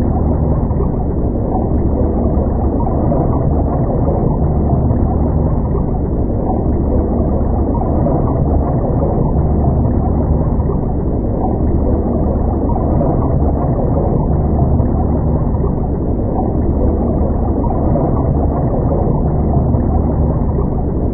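Boat engine running steadily: an even, low, dull drone with no high sounds in it.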